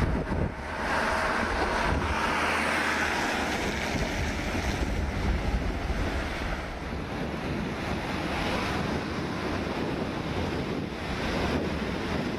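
Floodwater of the swollen Tonda River rushing steadily, its flood level raised by Typhoon Talas, with wind buffeting the microphone in low rumbling gusts.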